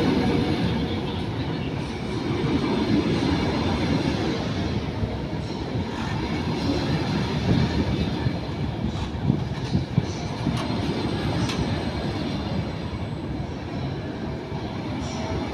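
Train moving through a station: a steady low rumble, with a few short sharp clicks a little before and after the middle.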